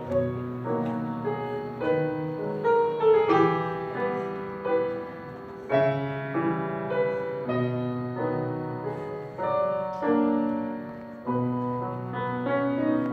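Piano playing the instrumental introduction to a ballad, chords and melody notes struck and left to ring and fade.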